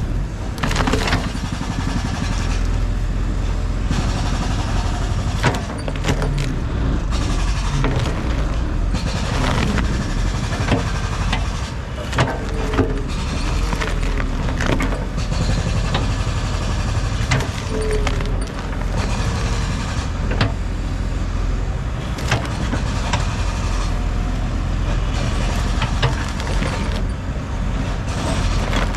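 Heavy diesel equipment running steadily under load, with frequent sharp knocks and cracks from material being broken and moved.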